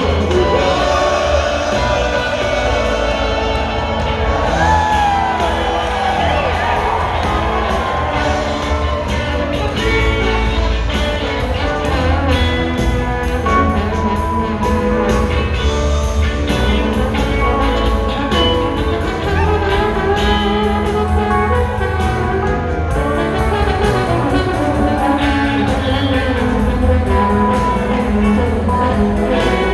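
Live rock band playing in a large hall, with guitar and brass over bass and drums, a few bending guitar notes early on.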